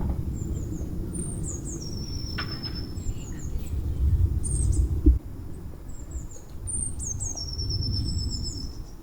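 A small songbird singing high, thin notes in short falling runs, some held briefly, over a constant low rumble, with a single thump about five seconds in.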